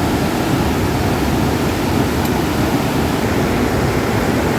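Flood-swollen mountain river rushing past in a steady, unbroken wash of water noise.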